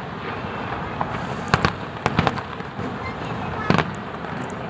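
Aerial fireworks bursting, sharp cracking reports in quick clusters about a second and a half in, just after two seconds, and once more near the end, over a steady background of noise.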